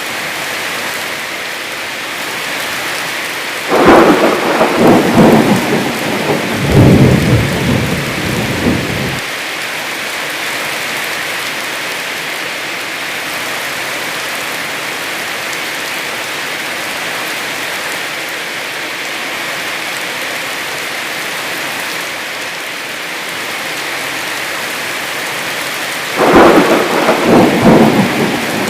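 Heavy rain falling steadily, broken twice by thunder: a long crackling peal about four seconds in that rumbles on for some five seconds, and another starting near the end.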